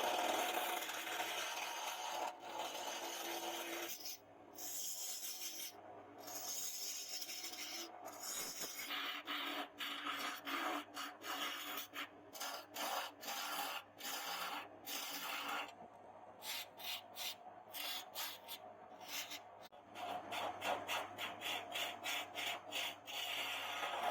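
Hand filing or sanding: rough strokes of an abrasive rubbed back and forth, close together at first, then separate strokes at about two to three a second.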